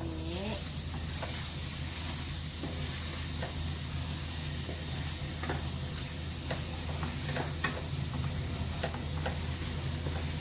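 Beef liver sizzling as it fries with turmeric in a stone-coated wok, with a wooden spatula scraping and knocking against the pan in short, irregular clicks as it is stirred. A steady low hum runs underneath.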